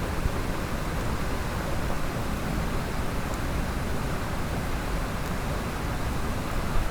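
Mountain stream water rushing steadily over rocks, a constant even noise with no let-up.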